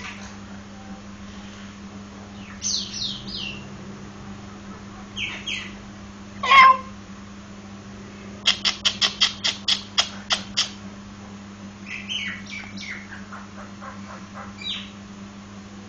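Nias hill myna calling: separate whistled and harsh calls, the loudest about six and a half seconds in, then a quick run of about ten sharp notes and later a falling series of notes.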